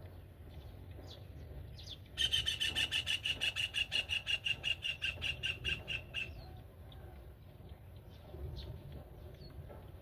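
Black-winged kite calling at the nest: a fast run of short, high, evenly spaced notes, about six a second, starting about two seconds in and lasting about four seconds.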